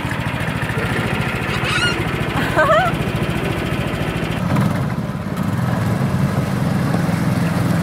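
Small engine of a mini monster truck running steadily, its note changing about four and a half seconds in.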